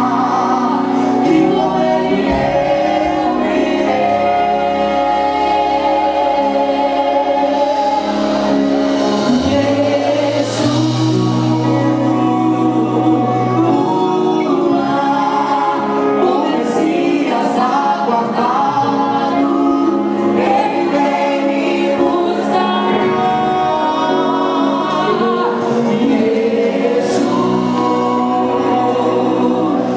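A worship song sung by many voices together, with long held notes over steady chords.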